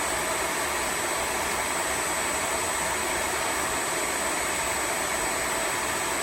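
Tineco Floor ONE S5 cordless wet-dry vacuum running its self-cleaning cycle in its dock: a steady motor rush with a thin, constant high-pitched whine over it.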